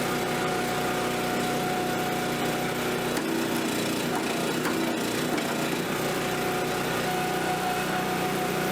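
A steady machine motor running, a constant hum with a few held tones and no change in speed.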